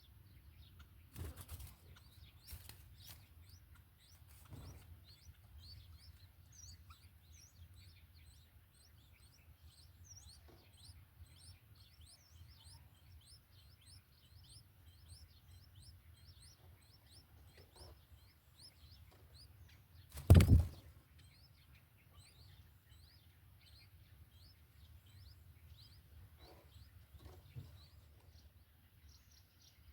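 Faint, rapid bird chirps repeating throughout over a low rumble, with a few soft knocks near the start and one loud thump about two-thirds of the way through.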